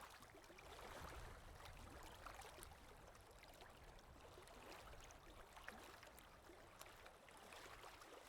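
Near silence: faint, even background hiss with a few tiny scattered ticks.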